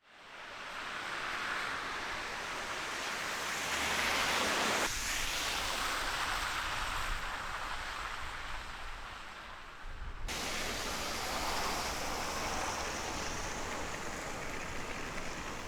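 Storm wind blowing in a snowstorm: a steady rushing noise that swells up at the start and shifts abruptly twice, about five and ten seconds in.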